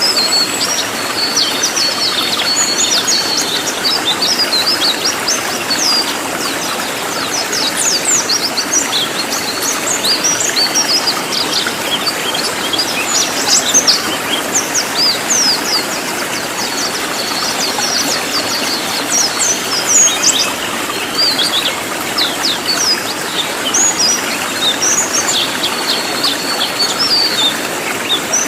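Cililin songbird singing loud, dense, rapid-fire song: quick high chirps and short sweeping notes, tightly packed, over a steady background hiss.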